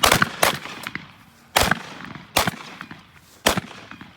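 Several shotguns firing at thrown clay targets, about six shots in quick, irregular succession, two of them almost together at the start, each crack followed by a short echo.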